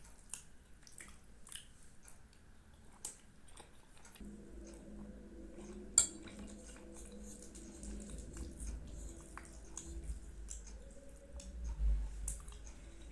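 Faint eating sounds: a spoon clicking against a dish now and then, with chewing. A faint steady hum comes in about four seconds in.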